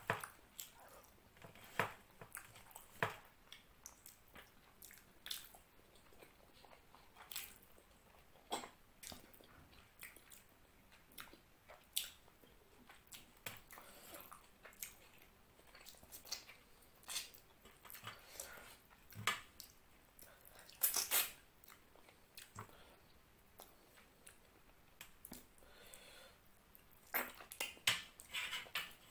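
Close-miked eating sounds of someone eating curry and rice by hand: chewing, with scattered sharp wet clicks and smacks of the mouth and fingers. A louder flurry comes about two thirds of the way in and again near the end.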